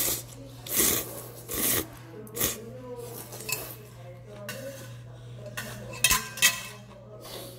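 Utensils clinking and scraping against a bowl of cold buckwheat noodles during eating: a run of short rustling bursts, then two sharp clinks about six seconds in.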